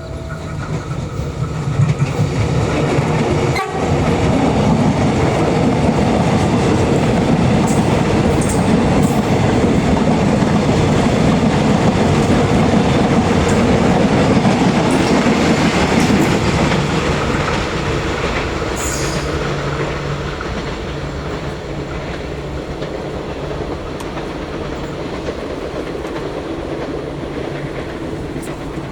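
A train passing close by on rails, its wheels clicking over the rail joints. It builds quickly, runs loud for about fifteen seconds, then eases off to a lower steady rumble.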